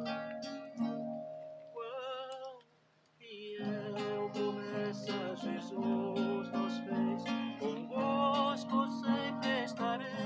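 Acoustic guitar strummed in a steady rhythm, accompanying a hymn, with wavering held sung notes over it. The music stops briefly about three seconds in, then the strumming resumes.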